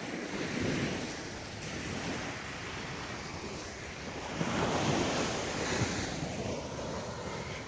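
Small waves washing onto a beach, the wash swelling about half a second in and again from about four and a half seconds, with wind buffeting the microphone.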